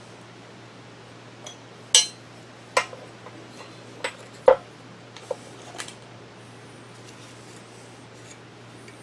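Metal parts and hand tools clinking and clattering on a hard surface: about six sharp, ringing knocks, the loudest about two seconds in and again about four and a half seconds in.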